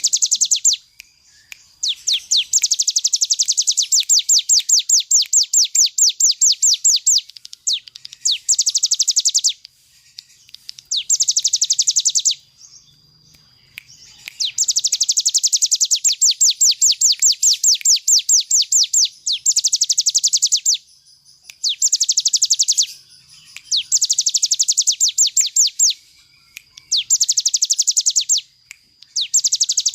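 Ciblek gunung, a prinia, singing in rapid, rattling trills of fast repeated high notes: the continuous 'ngebren' song. The phrases last one to five seconds, with short pauses between them.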